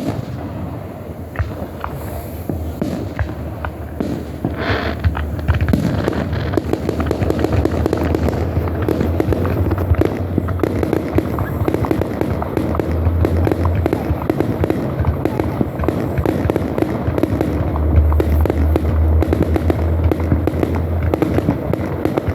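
Aerial fireworks show: repeated low booms of bursting shells under a dense, rapid crackle that thickens about six seconds in.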